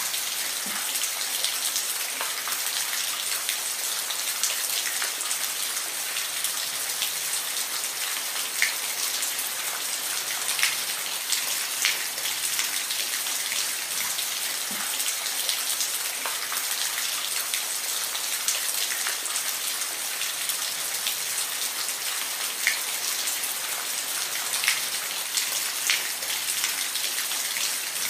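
Steady rain falling: an even hiss with single drops ticking sharply here and there.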